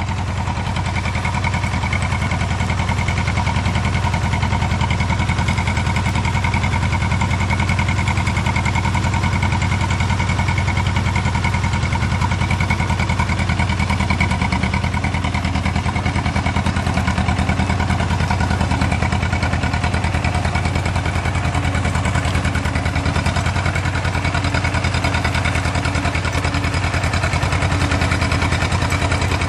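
Sugarcane combine harvester's engine running steadily at working speed, a continuous even hum without breaks.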